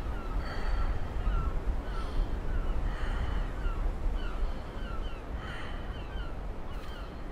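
Birds calling in short, falling chirps, one or two a second, over a steady low rumble.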